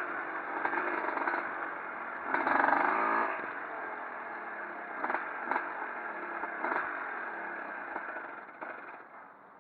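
Pre-1965 motocross motorcycles racing, their engines revving and changing pitch, with one bike loudest as it passes about two to three seconds in. A few sharp cracks come near the middle, and the engines fade away near the end.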